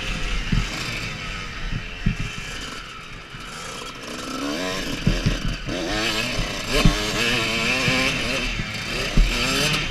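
Motocross bike engine revving up and down with quick throttle changes, easing off briefly about three seconds in before picking up again. Low thumps come through as the bike runs over the track.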